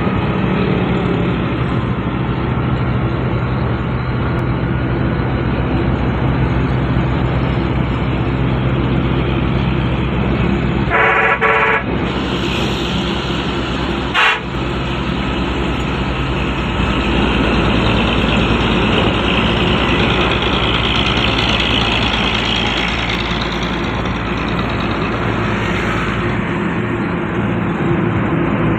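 Semi-truck diesel engines running hard with loaded trailers behind them. About eleven seconds in, a horn sounds for about a second. A few seconds later there is a single sharp knock.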